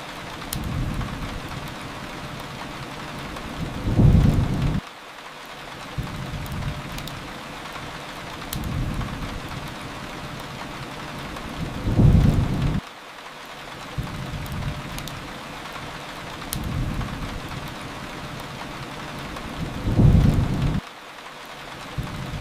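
Steady rain with faint sharp fire crackles over it, and low rumbles that swell and fade every couple of seconds. Three bigger rumbles come about eight seconds apart, each cutting off abruptly.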